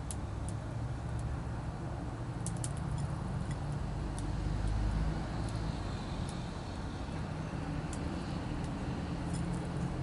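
Steady low rumble of distant road traffic, with scattered light sharp clicks and taps of small birds feeding at a seed feeder.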